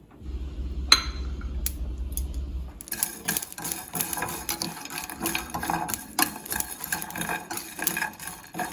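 A utensil stirring and scraping in a cooking pan, with repeated clinks and knocks from about three seconds in; a low hum and a single clink come before.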